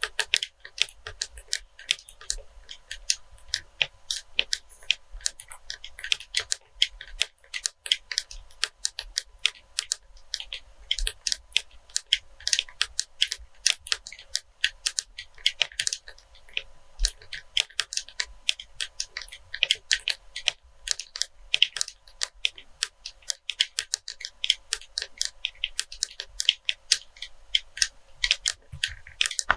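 Quick, irregular tapping and clicking on a cleaning-wipes package, several light taps a second, close to the microphone for ASMR.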